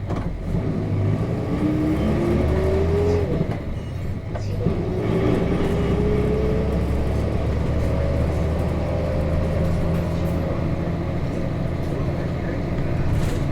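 Nissan Diesel KC-RM211GSN bus's FE6 diesel engine pulling under acceleration, heard from inside the cabin, with a whine climbing in pitch. About four seconds in it dips and breaks off for a gear change in the five-speed manual gearbox, then climbs again more slowly.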